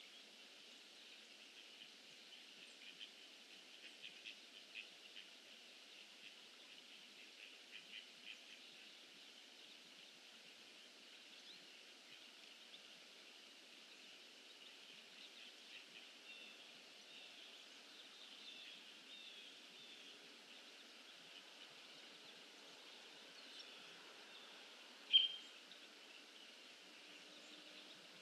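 Faint steady outdoor hiss with scattered faint bird chirps, and one short, louder chirp about 25 seconds in.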